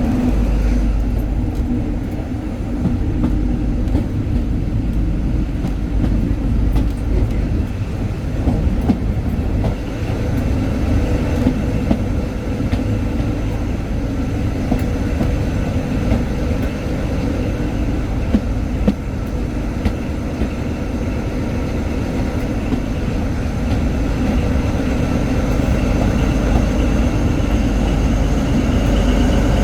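Heard from inside a coach behind a Class 43 HST diesel power car: a steady low rumble of the train running on the rails, with the power car's diesel engine note and scattered wheel clicks over rail joints. A faint higher whine grows a little stronger near the end.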